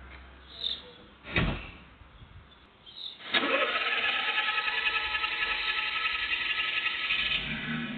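A car door shuts, then the Vauxhall Grandland X's 1.2-litre three-cylinder turbo petrol engine cranks on the starter for about four seconds: a prolonged start that the owner puts down to a dephaser pulley not working properly after the wet timing belt was changed.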